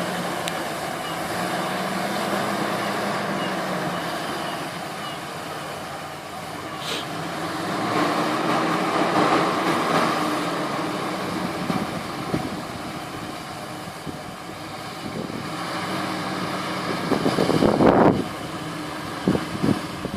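GAZ-3308 truck's petrol engine running, its sound swelling for a few seconds in the middle and again near the end before dropping off sharply, followed by a few knocks.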